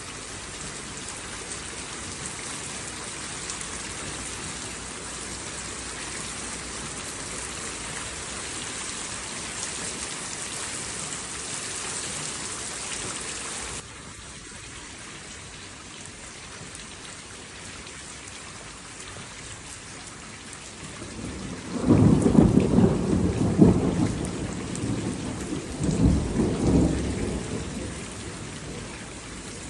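Steady heavy rain hiss that abruptly switches to a softer rain about halfway through, then a loud rolling thunder rumble with two peaks that fades out near the end.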